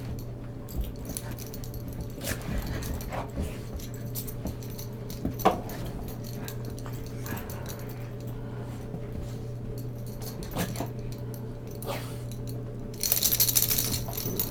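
Dogs at play: scattered scuffling and clicking with a jingle of collar tags, one sharp knock about five and a half seconds in, and a brief loud rattling burst near the end.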